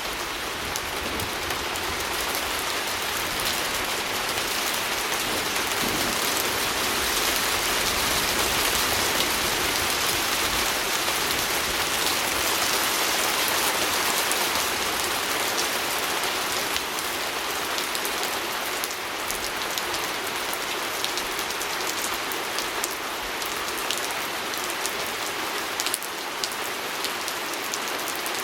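Steady rain pattering on a window, a continuous hiss with scattered sharp drop ticks, swelling a little in the middle.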